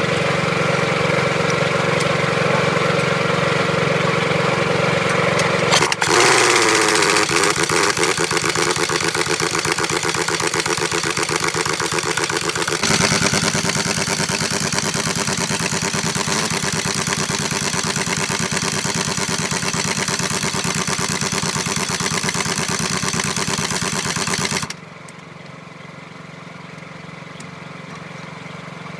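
Engine running steadily, heard in several abruptly cut segments. A falling pitch sweep comes about six seconds in, and the sound drops much quieter after about 25 seconds.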